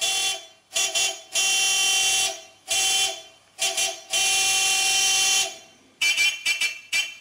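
Vehicle air horn sounding in a series of blasts, some short and some held for more than a second, then a quick run of short toots near the end.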